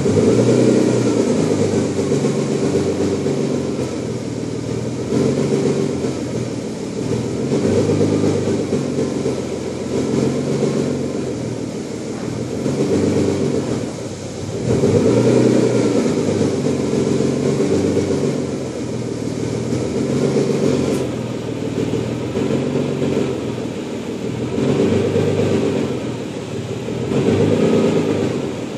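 Nissan 300ZX (Z32) 3.0-litre V6 idling unevenly, its revs rising and falling about every two and a half seconds. The idle is hunting while the engine warms through the low-to-mid 70s °C of coolant temperature.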